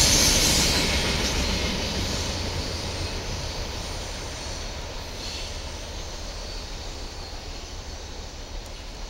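The last hopper cars of a coal train rolling past on steel rails, a hissing wheel-on-rail noise that fades steadily away over the first few seconds as the end of the train goes by, leaving only a faint low noise.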